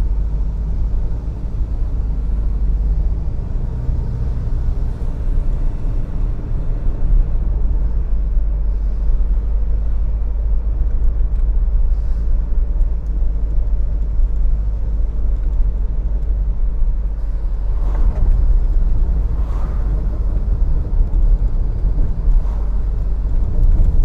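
Car driving up a steep hill road: a steady low rumble of engine and tyres.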